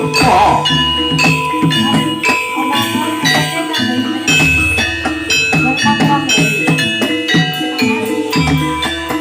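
Jathilan dance music from a gamelan-style ensemble: struck metal keyed percussion plays a quick, even pattern over drums, with deep low booms twice.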